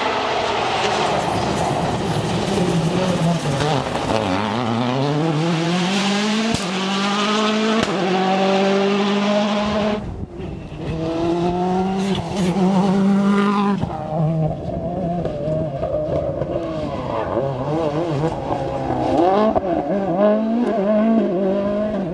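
Rally cars at full throttle, the engine note climbing and breaking at each quick upshift as they accelerate hard through the gears, with some tyre squeal. The sound dips briefly about ten seconds in, then climbs through the gears again before settling into a wavering, lower engine note.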